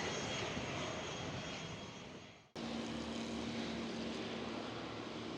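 Aircraft engine noise fading away, cut off abruptly about two and a half seconds in. A steady, quieter hum with a low tone follows.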